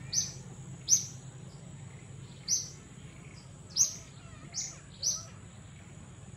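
Forest birds chirping: about six short, high chirps at uneven intervals, over a steady thin high-pitched tone and a low background hum.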